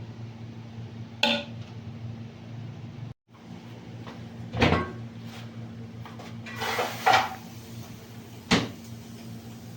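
Separate knocks and clatters of kitchen pots and utensils being handled, about five over several seconds, over a steady low hum. The sound drops out for a moment about three seconds in.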